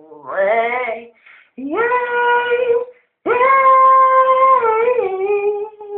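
A man singing unaccompanied, holding three long, high wordless notes with short breaths between them, the last one sliding down to a lower note.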